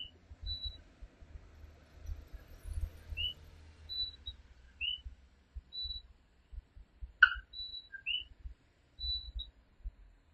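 Coquí tree frogs calling their two-note "co-quí", a short low note followed by a rising whistle, every couple of seconds, with other short high piping notes in the chorus. One sharp click about seven seconds in, over a low rumble.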